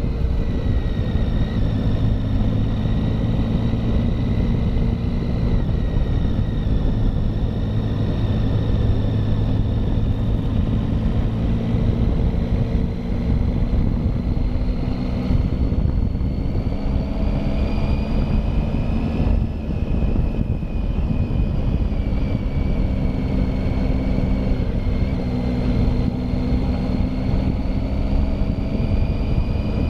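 Triumph Tiger motorcycle engine running at a steady cruise on a climb, its pitch rising and falling gently with the throttle, over steady wind rush.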